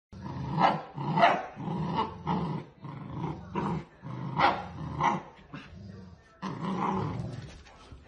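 A puppy growling and barking, a string of short growls and barks about half a second apart, then one longer growl near the end.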